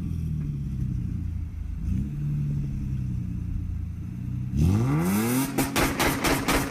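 Car engine idling steadily, with a short blip of the throttle about two seconds in, then revved hard near the end, its pitch sweeping up, followed by loud, rough bursts of noise.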